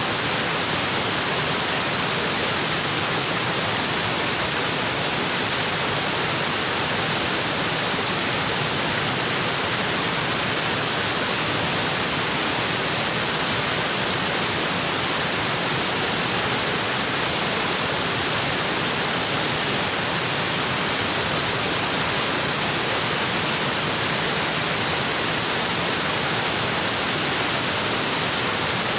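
Waterfall water pouring onto rocks, a steady, even rush of falling water.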